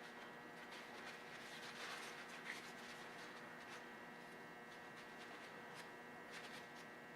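Near silence: a faint steady hum with a few soft clicks and light rubbing sounds.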